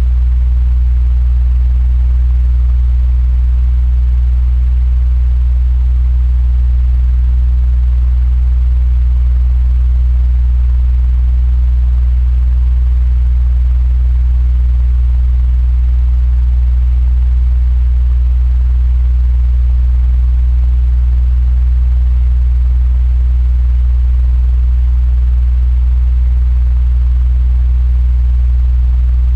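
Electric fan running steadily: a deep, even hum with a soft rush of air over it, unchanging throughout.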